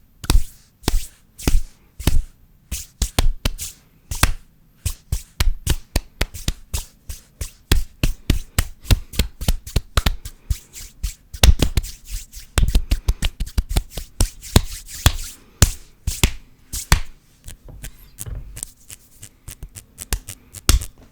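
Fast, aggressive ASMR hand sounds close to the microphone: a dense, irregular run of sharp slaps, claps and rubs, thickest in the middle.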